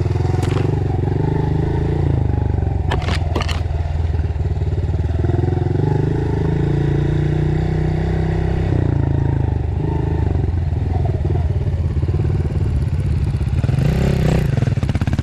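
Dirt bike engine running continuously while riding a trail, the engine note easing and picking up with the throttle, with a few sharp clattering knocks about three seconds in.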